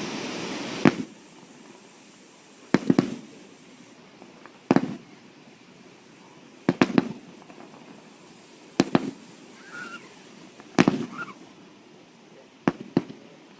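Fireworks exploding in sharp bangs about every two seconds, often two or three in quick succession. A steady rushing noise is heard before the bangs and cuts off about a second in.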